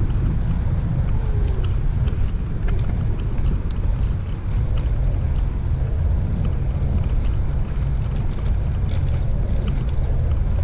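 Steady low rumble of wind and riding noise on a chest-mounted action camera's microphone while a bicycle is ridden, with a few faint ticks.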